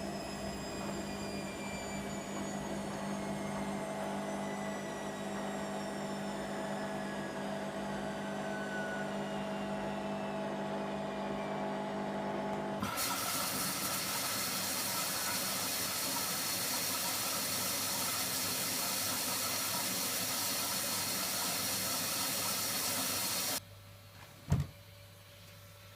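Hoover Nextra HNWL7146 washer dryer's motor whining down in pitch as the drum slows. About halfway through, a loud hissing rush starts abruptly, like water filling through the inlet valve; it stops suddenly about ten seconds later and is followed by a single knock.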